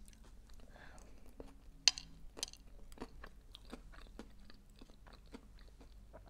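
Close-miked chewing and wet mouth clicks, with the wooden fork tapping and scraping on the plate; a sharp click stands out a little under two seconds in.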